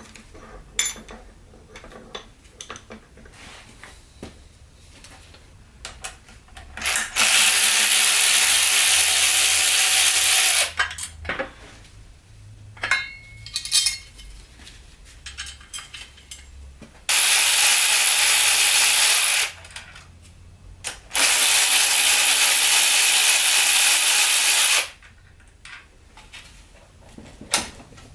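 Handheld electric power drill/driver running in three steady bursts of a few seconds each, with small clicks and clatter of tools and metal parts being handled between the bursts.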